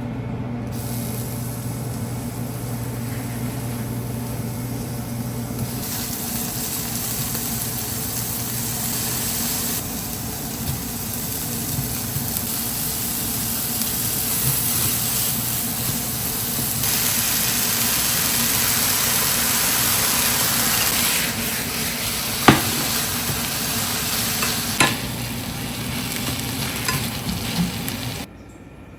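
Food sizzling in a frying pan, the sizzle louder at times, with two sharp knocks on the pan a couple of seconds apart near the end.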